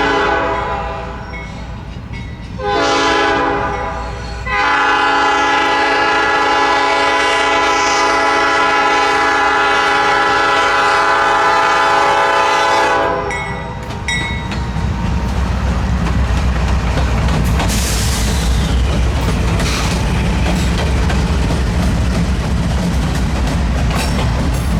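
Nathan P5 five-chime air horn on a leading Norfolk Southern diesel locomotive: a blast ending about a second in, a short blast, then a long blast held for about eight seconds, the short-then-long close of a grade-crossing signal. The intermodal train then passes close by with a loud rumble and wheels clicking over rail joints.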